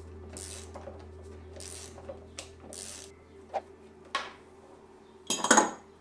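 Metal parts being handled on a workbench: a few short scrapes and light knocks, then a loud metallic clatter with a high ring about five seconds in.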